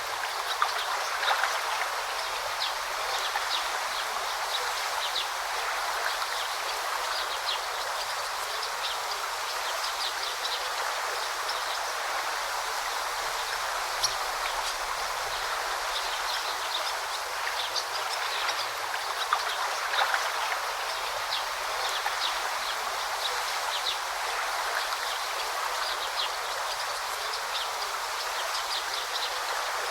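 Steady rush of flowing river water, with many short, high bird chirps over it.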